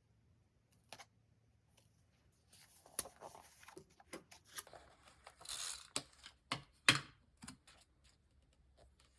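Stickers and paper handled on a desk: rustling peels with a scatter of sharp clicks and taps in the second half.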